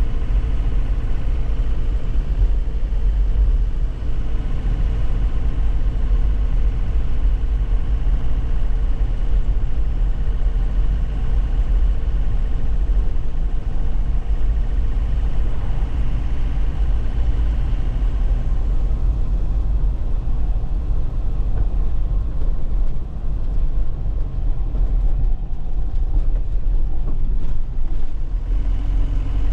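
2001 Nissan Cabstar 106Le light truck's engine running steadily under way, with a deep, steady drone and road noise. The higher-pitched part of the sound dies away about two-thirds of the way through.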